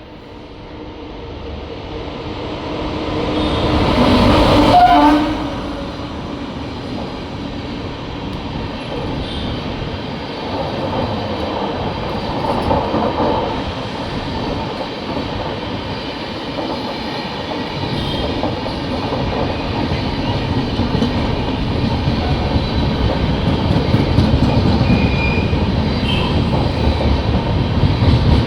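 Train running along the track, a continuous rumble with wheel clatter over the rails. It swells briefly about four seconds in, then settles and slowly grows louder toward the end.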